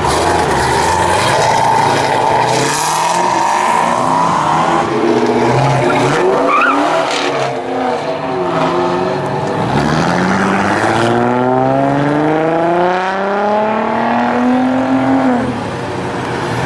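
Car engines accelerating away one after another, their pitch rising as they rev. About ten seconds in, one car pulls hard, its engine note climbing for about five seconds before it backs off.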